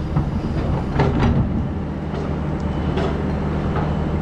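Hydraulic excavator's diesel engine running steadily, with a few sharp metallic clanks and squeaks from the working machine.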